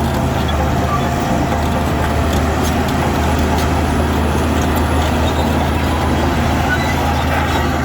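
Diesel engine of heavy earthmoving machinery running steadily under load, a low even drone with faint scattered clicks over it.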